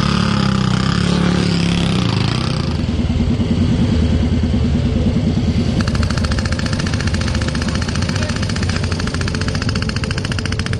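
Motorcycle engines running in the paddock. A fast, even engine beat comes in about halfway through and runs on.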